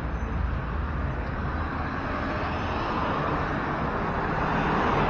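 Highway traffic passing close: a steady rush of tyres and engines, swelling as a vehicle goes by near the end.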